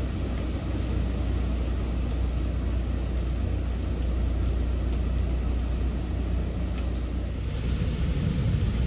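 Hurricane wind rumbling steadily around the garage, a deep continuous roar with a hiss that swells near the end.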